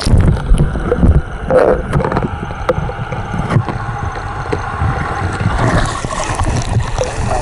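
Seawater sloshing and splashing close to the microphone while a person swims, with wind rumbling on the microphone.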